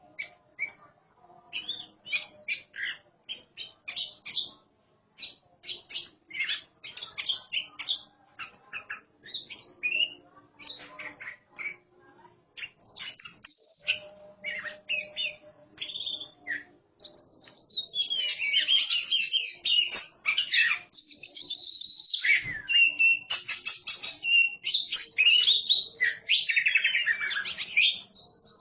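Oriental magpie-robins singing: short, separate chirps and whistles at first, then from about two-thirds of the way through a continuous, varied song of whistles, glides and rapid trills.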